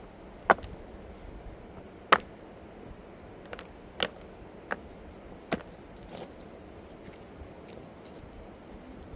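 About six sharp knocks or clicks at irregular intervals, the loudest near the start, over a steady low hiss.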